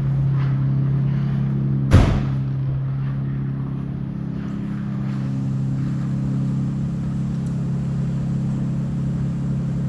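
Car engine idling steadily just after a cold start. About two seconds in there is one sharp knock.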